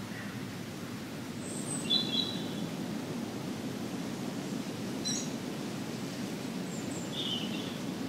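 Outdoor ambience with a steady low background rumble and a few short, high bird calls. The loudest call comes about two seconds in, and others come near the middle and near the end.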